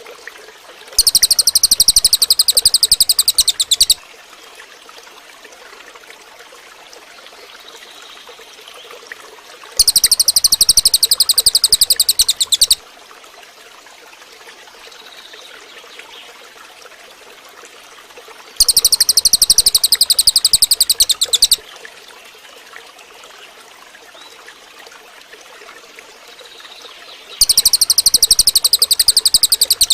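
Cililin bird song: a rapid, high-pitched buzzing trill about three seconds long, repeated four times at even intervals, over a steady trickle of running water.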